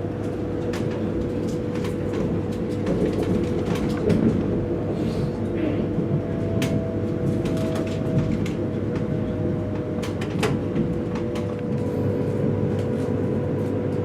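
Interior running noise of a high-speed EMU passenger train: a steady low rumble with a steady hum and scattered light clicks and rattles.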